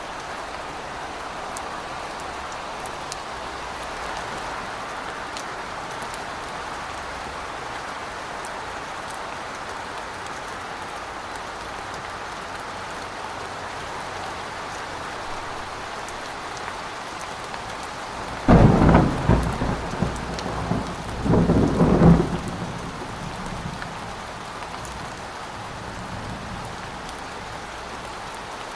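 Steady rain, with a loud clap of thunder about two-thirds of the way in that rumbles in two surges over some four seconds before fading back into the rain.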